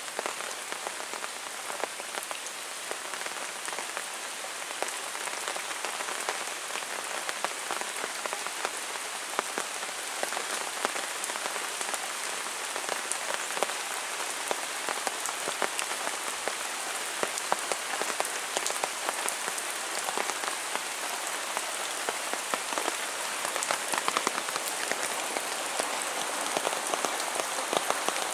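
Heavy rain falling steadily, a dense hiss with many separate drop impacts clicking close by.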